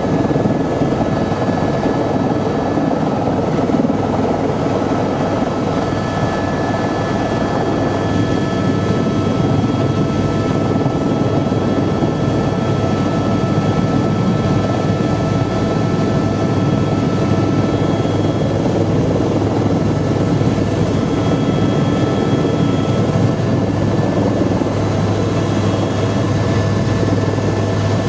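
Helicopter in flight, heard from inside the cabin: a steady, loud rotor and turbine drone with a few faint, high steady whines.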